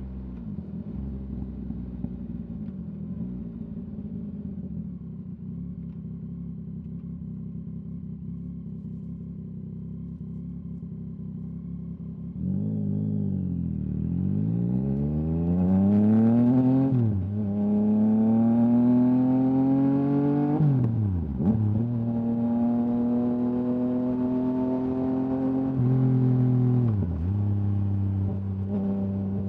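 Yamaha MT-09's three-cylinder engine through an Akrapovic exhaust, running steadily at low revs, then accelerating from about halfway. Its pitch climbs and drops sharply at each quick-shifted upshift, then settles into steady running with brief dips.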